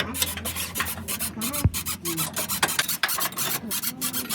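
Rapid, irregular scraping and clicking of hand-tool work on a car's suspension.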